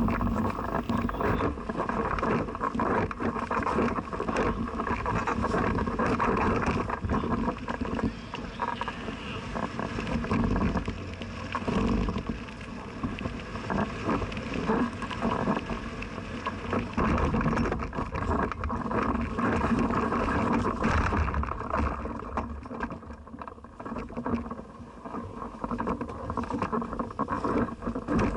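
Trials motorcycle engine running and revving unevenly as the bike is ridden, its loudness rising and falling, with a quieter spell about three-quarters of the way through.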